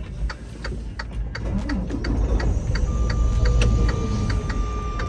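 Highway traffic passing close by, a heavy low rumble that swells and then fades, under a steady ticking about three times a second; a thin steady high tone comes in partway through and holds.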